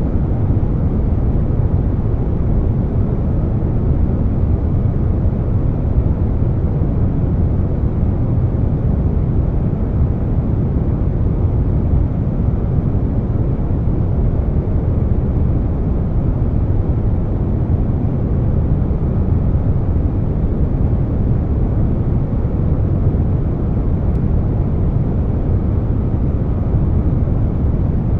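Air conditioner running mixed with brown noise: a steady, deep rushing with most of its weight in the low end and no changes.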